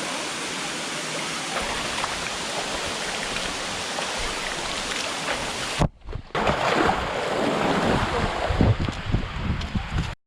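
Steady rushing of a waterfall. After a brief break about six seconds in, the rushing returns louder, with low thumps and wind rumble on the microphone, and it cuts off abruptly at the end.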